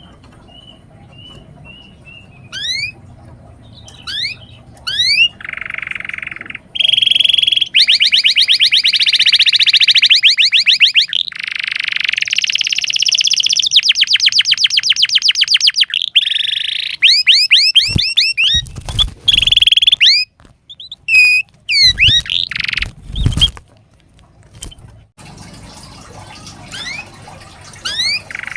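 Domestic canary singing: scattered rising whistled notes at first, then, from about a quarter of the way in, long loud runs of very fast rolling trills, breaking into shorter separate notes and chirps near the end.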